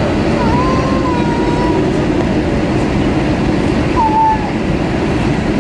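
Steady roar of an Airbus A320 cabin in flight, from the engines and airflow. A few brief high gliding squeals sound over it about a second in and again about four seconds in.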